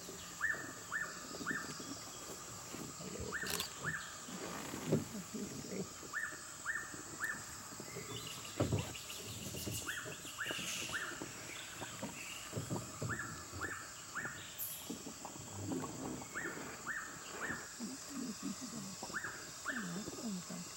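Rainforest ambience: a bird repeating a quick group of two or three short rising notes every three seconds or so, over a steady high insect drone, with soft low rustling in between.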